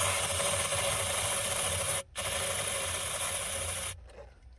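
Aerosol can of starting fluid spraying into the engine's air intake, a steady hiss broken once about two seconds in and stopping about four seconds in. This is a crank-no-start test: starting fluid stands in for fuel to check whether the engine is getting fuel.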